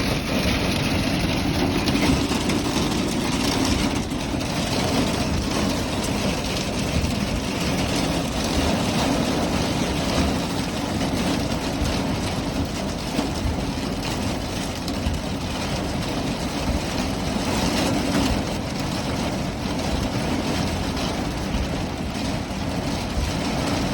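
Heavy rain and hail pelting a car's roof and windows, heard from inside the car as a steady, dense patter.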